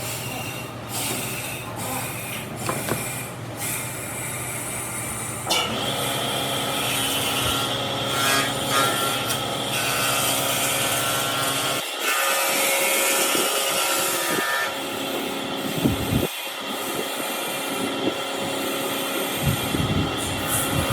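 Woodworking power tools running on wood, with a steady motor whine, in several passages that change abruptly about five and twelve seconds in.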